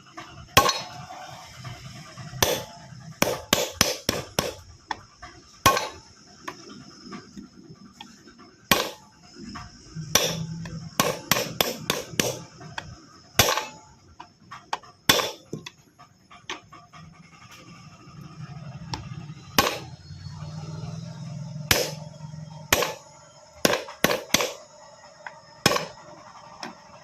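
Irregular sharp knocks and taps, some in quick runs of three to five, typical of hand tools or a hammer striking parts during work on a tractor's disc brake, over a faint steady high whine.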